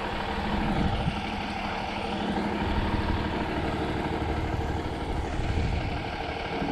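A motor vehicle's engine idling steadily, a low, even hum.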